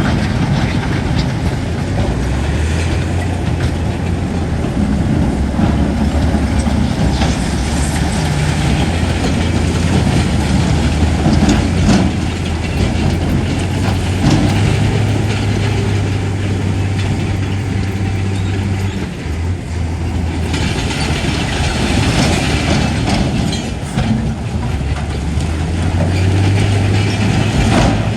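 Heavy diesel earthmoving machinery working under load: a deep engine note that steps up and down in pitch, with rattling and scraping noise over it.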